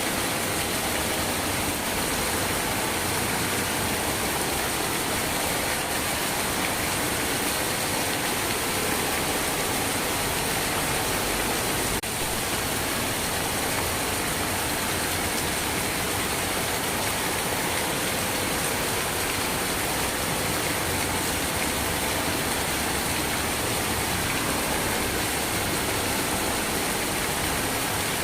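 Steady rainfall: an even, unbroken hiss of rain with no pauses or thunder.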